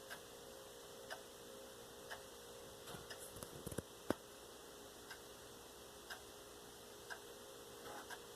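Faint clock ticking steadily about once a second. A few small clicks come a little after three seconds in, then one sharper click, as a faint steady hum stops.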